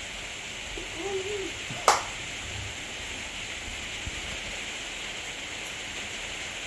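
Heavy rain falling steadily, a constant hiss, with one sharp click a little under two seconds in.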